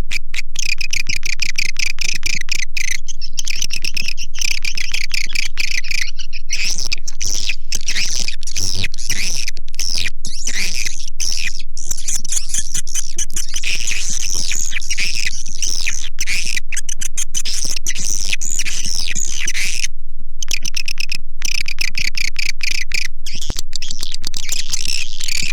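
A swiftlet lure call recording: many swiftlets twittering and chirping fast, dense and loud, with a few brief cut-outs in between.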